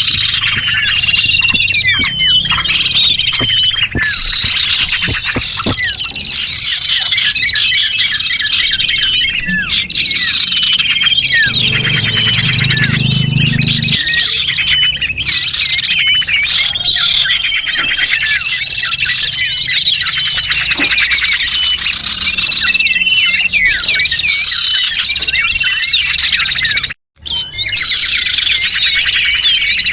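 A dense, unbroken chorus of many small birds chirping and twittering at once, with quick high chirps and short trills overlapping. This is a bird-lure recording meant to draw small birds in. The sound cuts out for a split second about three seconds before the end, then resumes.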